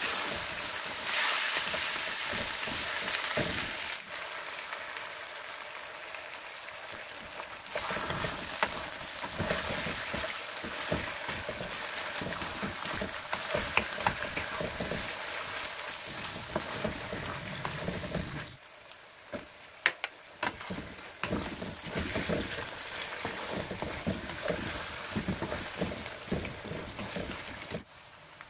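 Food frying in hot oil in a wok, a steady sizzle with scattered clicks and scrapes of a spatula stirring. The sizzle is loudest in the first few seconds and quieter in the last third.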